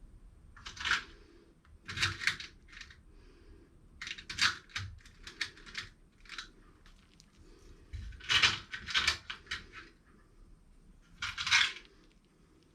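Self-tapping screws and small metal hardware clinking and rattling in irregular bursts, as if being rummaged through in a container.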